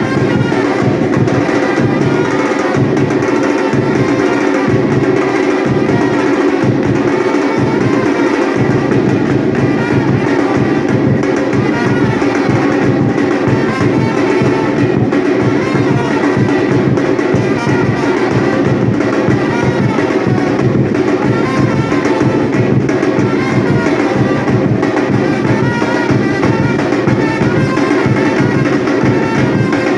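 Batucada drum ensemble playing a steady, driving rhythm, with bass drums and sharp higher-pitched percussion.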